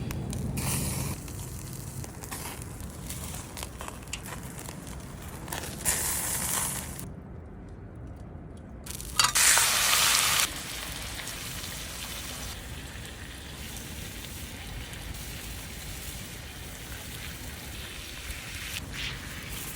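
Fire and grilling food sizzling, a steady crackling hiss. Two louder rushes of noise stand out, one about six seconds in and a stronger one lasting just over a second about nine seconds in.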